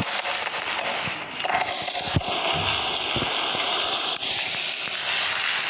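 Steady hiss of heavy rain, with a few soft thumps a little over two seconds in.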